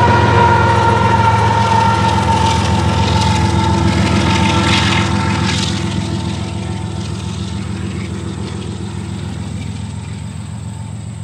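Diesel locomotive pushing at the rear of a double-stack container train, its engine drone mixed with the run of wheels on rail, fading steadily as it moves away. A few high whining tones sink slightly in pitch as it goes.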